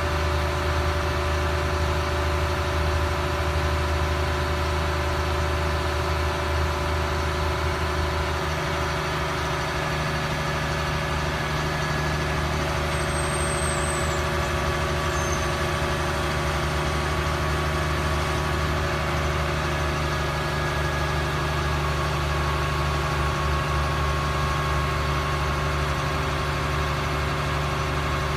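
2004 Ford F750 crane truck's engine running steadily at idle, its low hum shifting slightly about eight seconds in.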